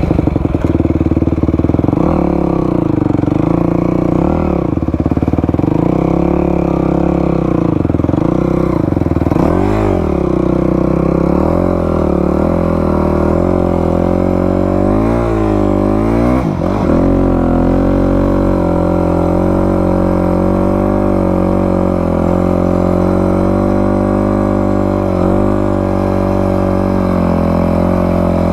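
Dirt bike engine revving and easing off several times as it rides through soft beach sand, then running at a steadier pitch for the last third.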